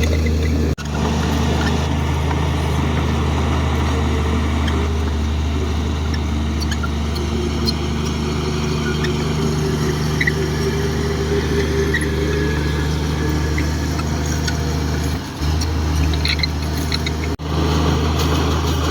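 Komatsu D58 bulldozer's diesel engine running steadily, with a faint rising whine partway through and faint high squeaks here and there. The sound breaks off sharply for an instant near the start and again near the end.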